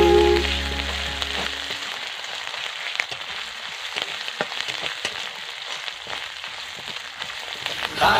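Prawns frying in oil in an aluminium kadai: a steady sizzle, with a few sharp clicks of the spatula against the pan as they are stirred. Background music fades out in the first second or two.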